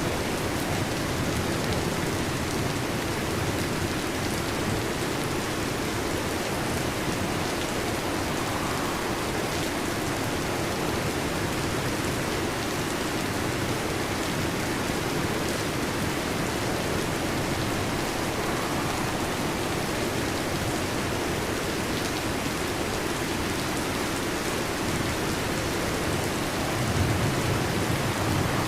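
Steady heavy rain, with a low rumble of thunder swelling near the end.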